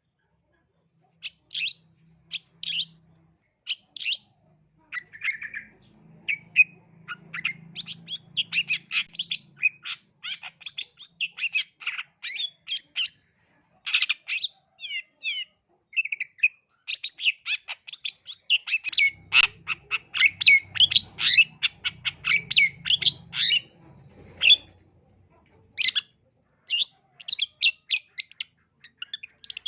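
Long-tailed shrike (cendet) singing a fast, chattering song of short, sharp notes in rapid runs, broken by brief pauses.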